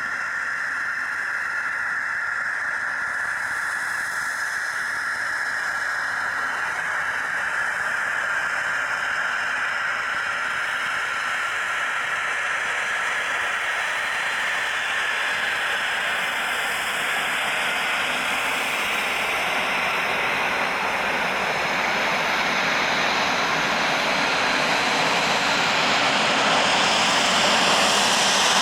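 Cessna Citation 560 XL business jet's twin turbofans heard on approach: a steady jet whine and rush that grows gradually louder.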